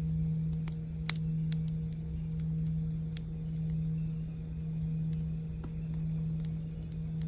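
Singing bowl ringing in a steady low hum that swells and fades slowly, over a campfire crackling with scattered sharp pops.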